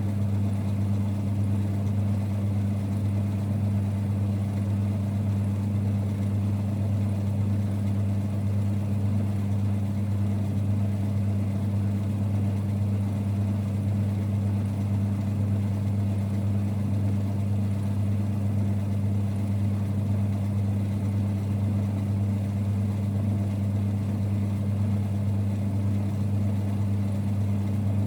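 1946 Boxford lathe running: a steady, unchanging low rumble with a strong hum.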